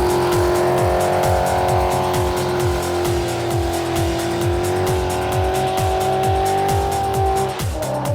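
A high-powered Ford Mustang doing a burnout: the engine is held at steady high revs while the rear tires squeal, and the note drops away near the end. Background music with a steady beat plays underneath.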